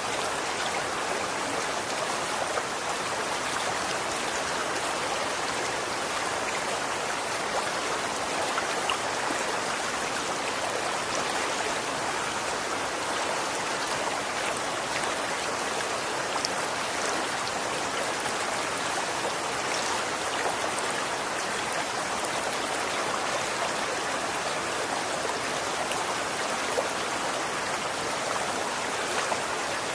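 Running water flowing steadily, an even rushing hiss with small splashes and droplet ticks scattered through it.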